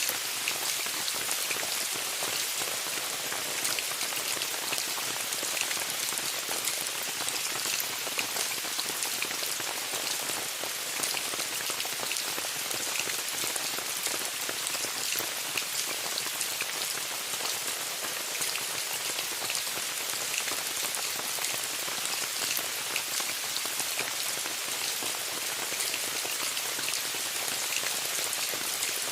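Steady rain falling on a tent, many separate drops ticking over an even, bright hiss.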